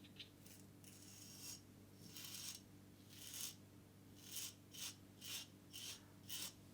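Single-edge safety razor (Occam's Razor Enhanced Nano with a Feather Pro Guard blade) cutting through two days of lathered stubble: a run of short, faint rasping strokes that come quicker in the second half.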